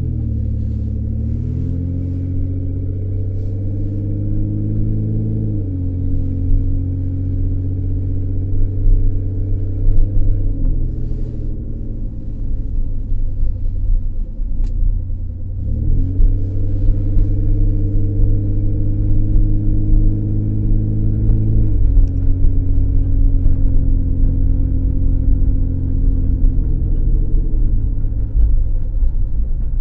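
2003 Ford Escape driving, heard from inside the cabin: the engine note rises as the car pulls away and steps down at gear changes several times, over a steady low road rumble.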